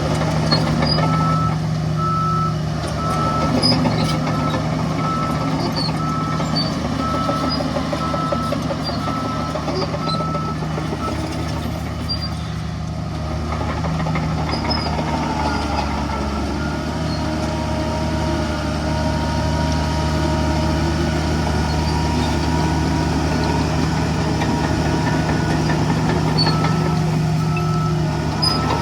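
Heavy diesel engine running steadily under a reversing alarm that beeps in an even series for the first ten seconds or so, then stops and starts again near the end.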